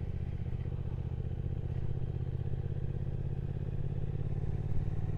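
Triumph Speed Twin 1200's parallel-twin engine running steadily under the rider while cruising, an even engine note with a low rumble.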